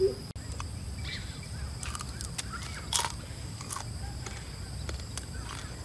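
Birds chirping in short curving calls over a steady low rumble, with a faint steady high-pitched hum and one short hiss about three seconds in.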